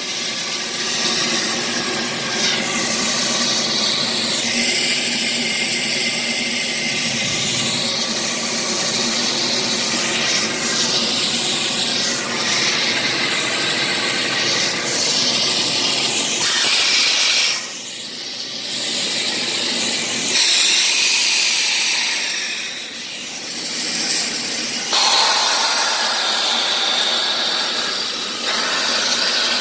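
Oil-fired steam locomotive No. 3415 hissing steam steadily over a low, even hum, with louder surges of steam about halfway through and twice more later.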